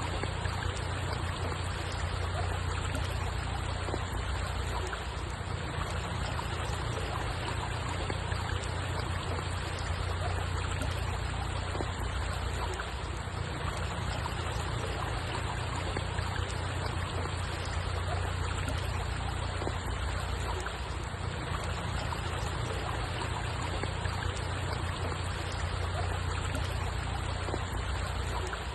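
Steady flowing water, an even wash of noise with a constant low rumble beneath it.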